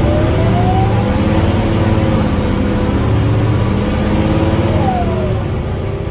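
Scania DC9 five-cylinder diesel of a Scania L94UB bus pulling under load, heard on board, with its pitch rising in the first second. About five seconds in the pitch drops briefly as the ZF automatic gearbox changes up.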